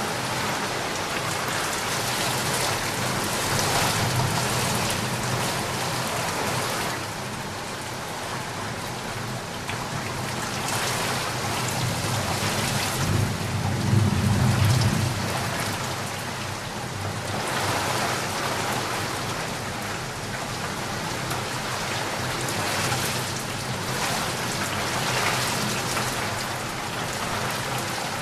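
Steady heavy rain hissing and pattering on surfaces, swelling and easing every few seconds. About halfway through, a low rumble of distant thunder rises and fades.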